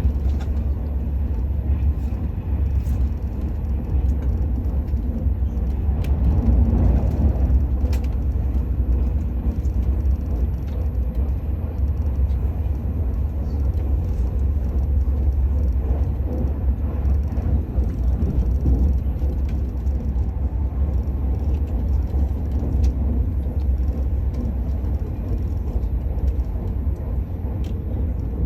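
Steady low rumble of the Al Boraq high-speed train running at speed, heard from inside the passenger car, with a few faint clicks.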